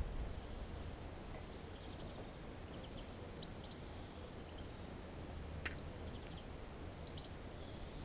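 Small birds chirping and twittering faintly in short clusters, over a steady low rumble. A single sharp click comes about two-thirds of the way through.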